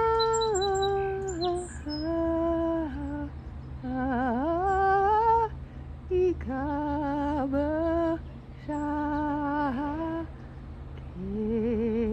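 A woman humming a slow, wavering melody in phrases of one to two seconds with short breaths between them. A songbird gives a few faint, high chirps in the first couple of seconds.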